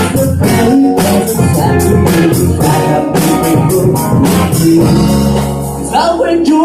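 Live rock band playing a passage without lyrics: guitar over a steady beat of drum and cymbal hits.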